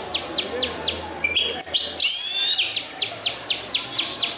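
Recorded birdsong: a high rising whistled phrase followed by a quick run of falling notes, about four a second, with a few separate chirps between the phrases.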